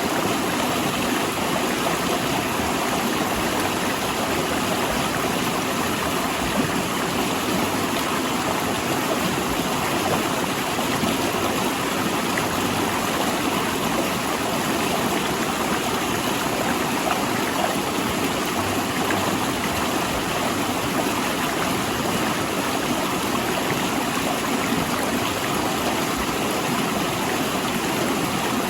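Mountain river rushing and splashing between large rocks, a steady unbroken wash of water noise.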